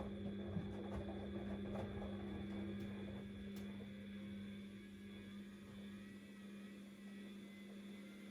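Siemens Extraklasse XLS 140 A washing machine running mid-cycle with a steady electric hum. An uneven rushing over the first few seconds eases off.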